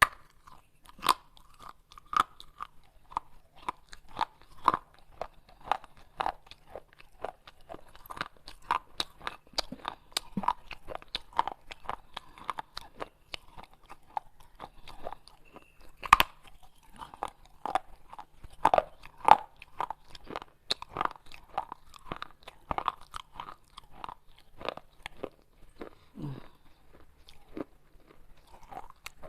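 Pieces of baked clay pot being bitten and chewed close to the microphone: an irregular run of sharp, dry crunches, roughly one or two a second, with a few much louder bites standing out.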